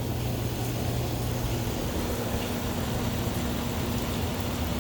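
Steady hiss of rain and wind, with a low steady hum beneath it.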